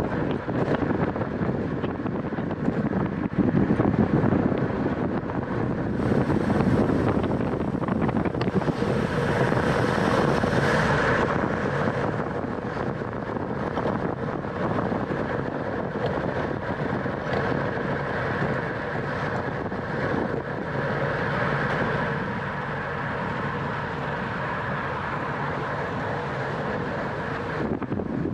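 Steady wind rushing over the microphone of a camera riding on a racing bicycle at speed.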